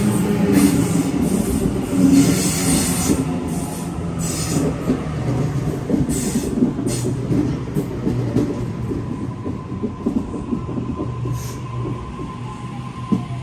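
Sydney Trains Tangara electric double-deck train rolling slowly along a tightly curved platform, its wheels screeching on the curve in repeated bursts over a low running rumble. Near the end the screeching dies away and a falling motor whine is heard as the train slows.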